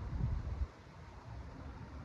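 Low, steady outdoor background rumble, a little louder in the first half-second.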